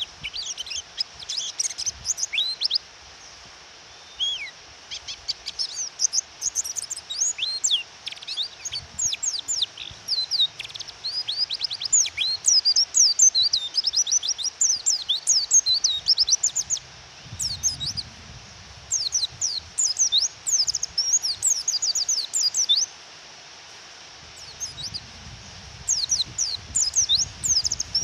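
White-eyes (pleci) chirping in quick, high, downward-sweeping notes, in rapid bouts with short breaks; the calls are of the kind used to provoke a male white-eye into calling. A steady hiss of rain runs underneath.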